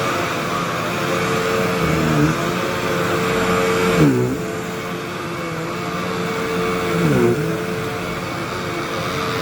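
Hoover WindTunnel bagless upright vacuum cleaner running on carpet, a steady motor whine whose pitch dips briefly and recovers three times, about two, four and seven seconds in.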